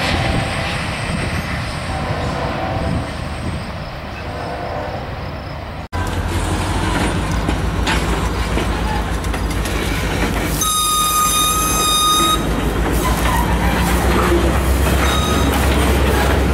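A train rolling past with a steady low rumble and wheel noise. The sound drops out abruptly about six seconds in and comes back heavier. About eleven seconds in, a steady high-pitched squeal holds for under two seconds, and a fainter short one follows near the end.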